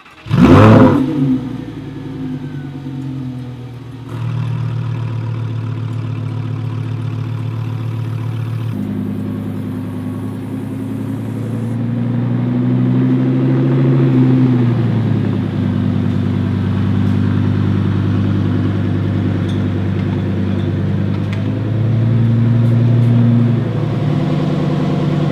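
Lamborghini Huracán Performante's 5.2-litre V10 starting up with a loud flare of revs, then settling into a steady idle. Engine speed rises and falls slowly twice later on.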